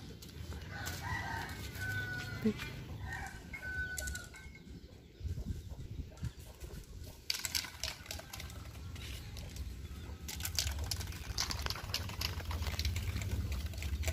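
Birds calling a few short, wavering times in the first few seconds, over a low rumble. A run of sharp clicks and rustles follows in the second half.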